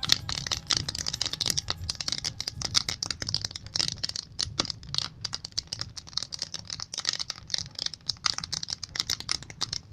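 Wood fire in a fireplace crackling, with dense irregular snaps and pops.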